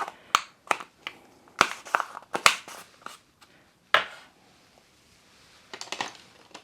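Plastic makeup containers and brushes being handled and put down: a series of light clicks, taps and rustles, with a single sharp click about four seconds in, like a compact case snapping shut.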